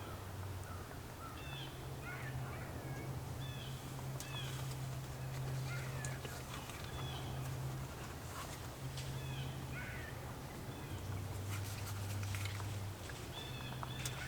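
Small birds giving short, scattered chirps in woodland, over a steady low hum.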